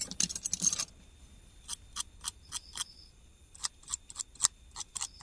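Light, irregular clicks and taps of small tools and parts being handled on a repair bench, about a dozen spread over a few seconds, over a faint steady high-pitched whine.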